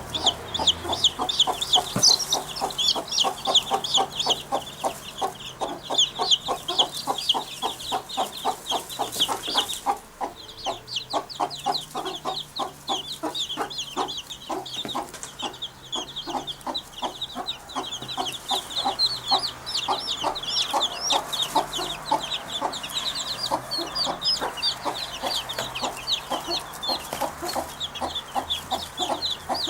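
Continuous bird chatter: rapid, chicken-like clucking calls with many high chirps layered over them, which the uploader attributes to wood pigeons building a nest. A faint low hum sits beneath.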